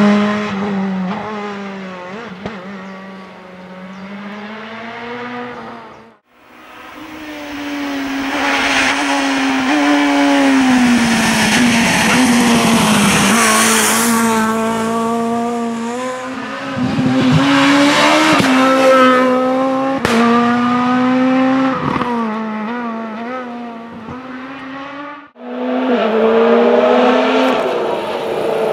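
Rally cars driven hard on a special stage, engines at high revs that climb and drop with gear changes and lifts off the throttle. Three separate runs, each ending in an abrupt cut, about 6 seconds in and again near the end.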